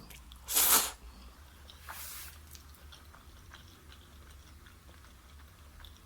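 A person chewing food with the mouth close to the microphone, with soft wet clicks. About half a second in comes a loud, breathy rush of air, and a fainter one about two seconds in.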